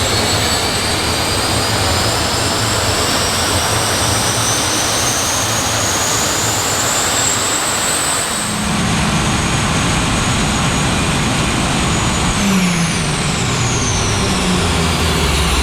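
Jet truck's jet engines running at full power, loud and steady, with a whine climbing in pitch. About eight seconds in the sound changes, and near the end the whines fall in pitch.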